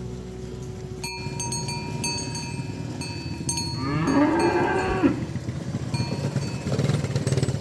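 A cow moos once about four seconds in: a single call of about a second that rises and then falls in pitch. A steady low rumble runs underneath, and high ringing tones like a cowbell start with a click about a second in.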